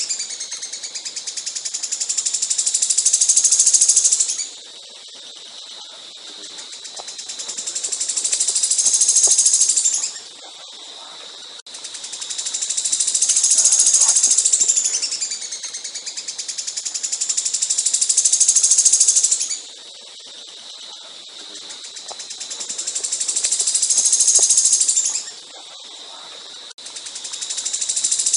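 A songbird's rapid, high-pitched trilling burst. Each phrase swells in loudness over about four seconds, then cuts off sharply, and it repeats about every five seconds.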